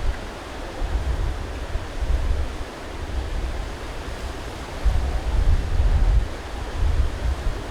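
Strong gusting wind buffeting the microphone, a steady rushing with heavy low rumbles that swell and ease, strongest about a second in and again after about five seconds.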